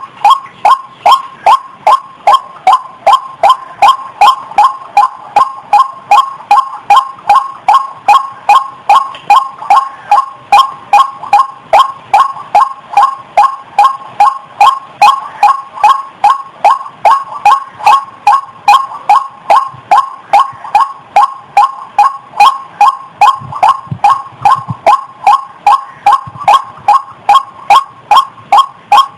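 Female rail of the kind sold as ayam-ayaman or ruak-ruak (white-breasted waterhen / watercock) giving its breeding-condition call: short notes repeated steadily, about two and a half a second, without a break.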